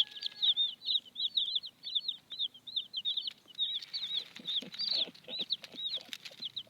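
A basket of baby chicks peeping continuously, several short high chirps a second. Around the middle, rustling and light taps from the chicks moving in the basket.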